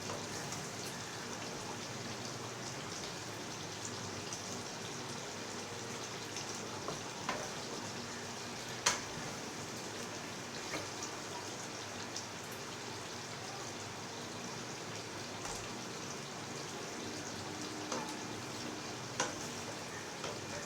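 Chicken curry simmering in a pan, a steady sizzle and patter of bubbling with a few sharp clicks, the loudest about nine seconds in.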